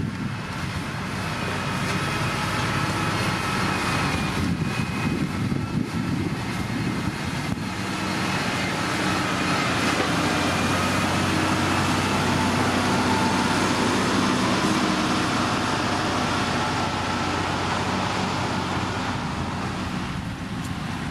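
Diesel engine of heavy road-building machinery running steadily, growing a little louder through the middle and easing off near the end, with a faint steady whine above the engine note.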